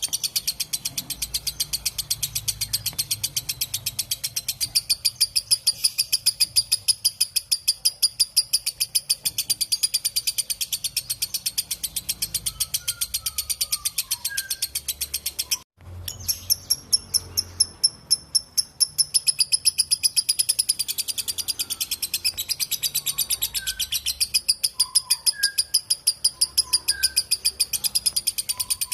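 Lovebird doing a long ngekek: a fast, unbroken run of shrill chattering notes, cutting out briefly about two-thirds of the way through and then picking up again.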